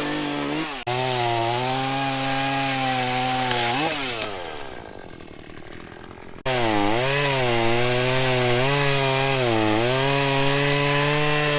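Two-stroke chainsaw running at high revs while cutting a fallen tree, its pitch dipping and recovering. It winds down in the middle, then comes back at full throttle about six seconds in.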